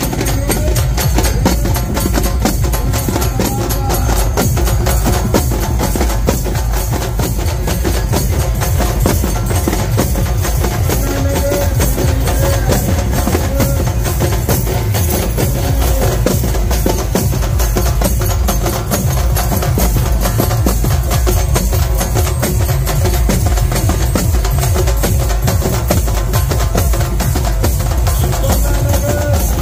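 Loud festival dance music: fast, dense halgi frame-drum beating over a DJ sound system's heavy, steady bass.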